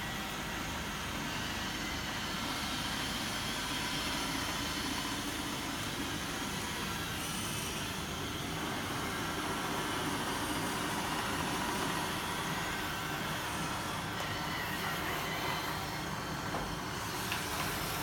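iRobot Roomba 770 robot vacuum running: the steady whir of its vacuum motor and brushes, with a few faint steady whining tones over it.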